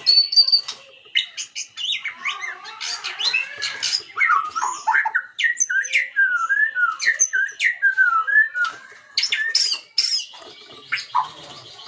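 White-rumped shama singing a fast, varied song: rising and falling whistled sweeps mixed with harsh, clicking notes.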